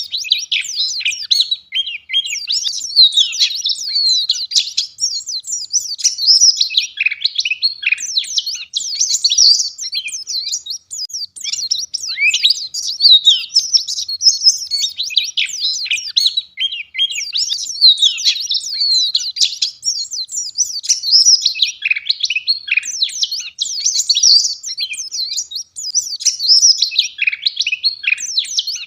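White-eye (pleci) singing a fast, unbroken, high-pitched twittering song, with louder phrases every couple of seconds.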